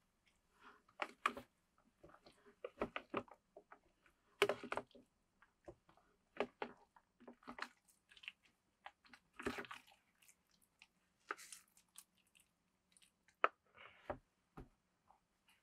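A person eating: chewing and crunching in irregular short bursts, in a small room.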